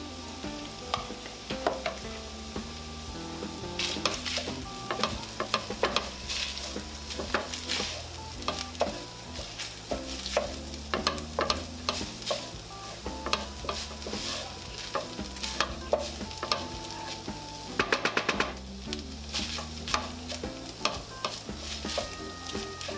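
Ground beef and onions sizzling as they fry in a pan. A spoon stirs in tomato paste, scraping and knocking against the pan many times at an uneven pace.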